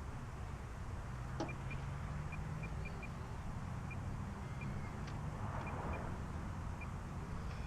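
A car's engine running low and steady close by, with a faint string of short high chirps over it.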